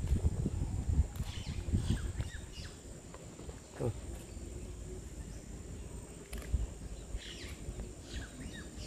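Outdoor rural ambience: birds chirping briefly a few times over a steady faint insect drone, with some low rumble from handling or wind in the first couple of seconds.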